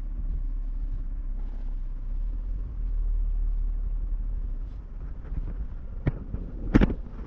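Truck engine running with a steady low rumble as it drives, swelling a little a few seconds in, with two sharp knocks near the end. It runs smoothly, its bad misfire cured by new spark plugs and an ignition coil.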